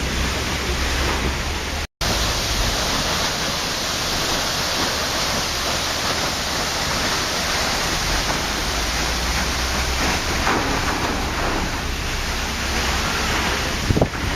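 Waterfall: water falling and rushing in a steady, even roar of noise. A split-second dropout to silence about two seconds in, and a brief louder splash near the end.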